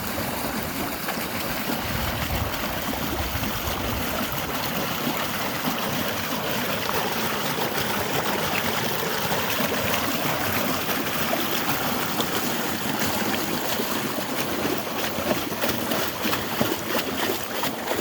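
Water rushing steadily along an open irrigation delivery channel.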